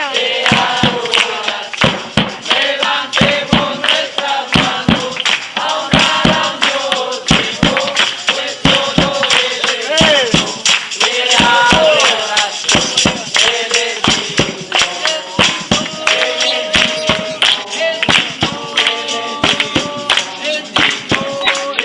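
Voices singing with many sharp percussive taps running through the song.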